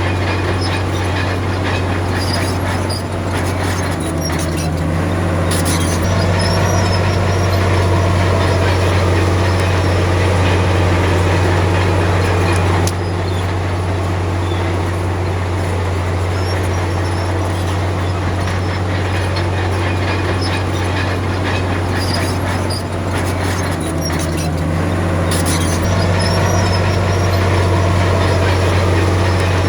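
Komatsu D53P crawler bulldozer's diesel engine running steadily under load, its pitch shifting briefly twice, with short high squeaks now and then.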